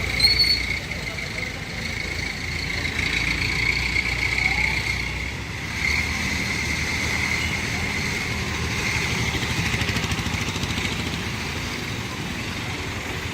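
Outdoor traffic noise: a vehicle engine running, with a steady high-pitched hum over broad background noise. The lowest rumble drops away about five seconds in.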